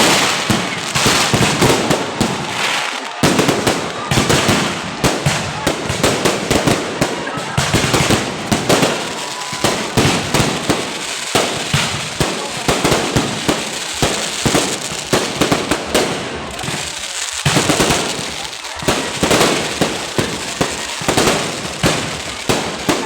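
Fireworks display in a dense, continuous barrage: rapid bangs and crackles, several a second, with no break.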